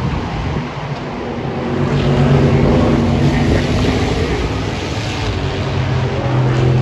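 Race car engines running at speed, with a steady engine note that swells as cars pass, about two seconds in and again near the end.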